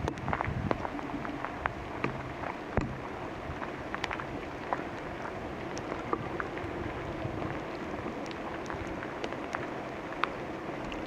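Steady rain falling in a redwood forest, with many separate drops hitting close by as sharp scattered ticks. There are a few soft low thumps in the first few seconds.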